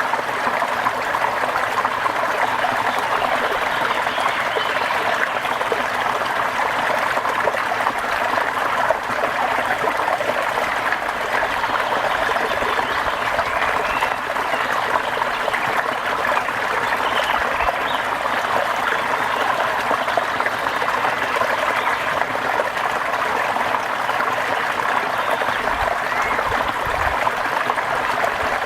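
Steady rushing, trickling water noise, even and unbroken throughout.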